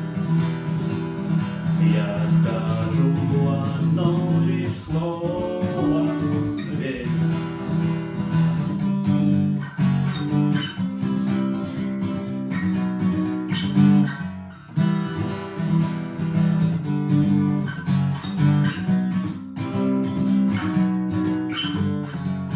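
Acoustic guitar strummed rhythmically, chords mixed with sharp percussive muted 'knock' strokes on the strings.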